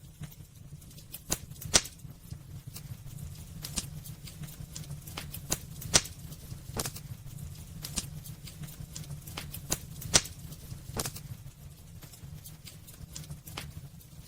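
Wood fire burning in a fireplace: a steady low rumble of flame with irregular sharp crackles and pops from the burning wood, a few louder snaps among them.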